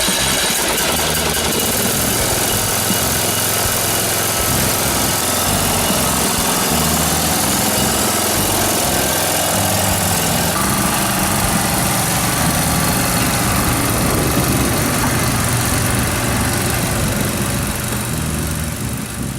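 Briggs & Stratton lawnmower engine running steadily, just started after its flooding Nikki carburetor was repaired. The sound weakens near the end.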